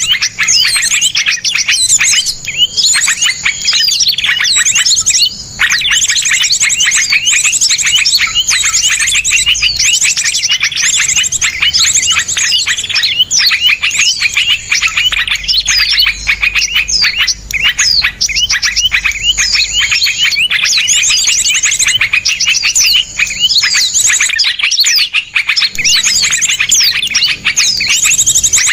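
Dense chorus of small songbirds singing rapid, sharp, closely packed chirps and trills without a break, the kind of fast rough song bird-keepers use as masteran to teach caged songbirds.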